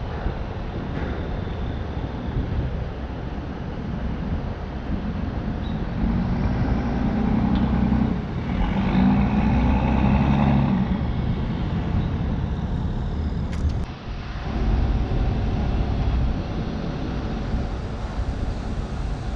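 Steady low rumble of vehicle noise, swelling louder for a few seconds about halfway through.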